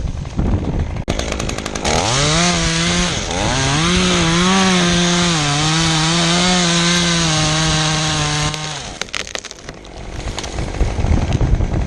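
Two-stroke chainsaw revved up about two seconds in and held at high speed, its pitch dipping and recovering as it cuts through a pecan limb, then let off near the end. Noisy rustling and clicks come before and after it.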